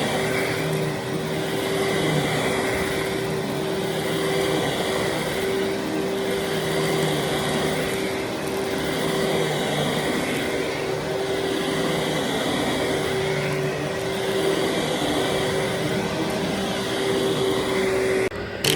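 Vacuum cleaner running steadily over carpet, a constant motor hum with a held tone, broken briefly near the end.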